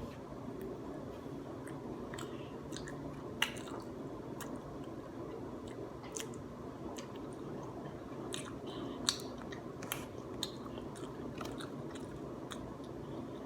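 Someone chewing food with scattered short, wet clicks and smacks, over a steady low hum.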